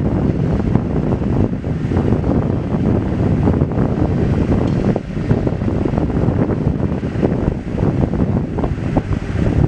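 A train passing close by: a loud, continuous rumble of wheels on the rails, with many short irregular knocks.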